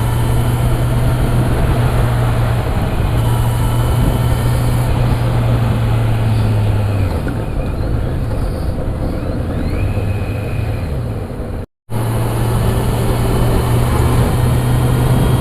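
Motorcycle engine running steadily at road speed under heavy wind and road noise, heard from the rider's microphone. The steady engine note fades about halfway through, and the sound cuts out for a moment near the end before resuming.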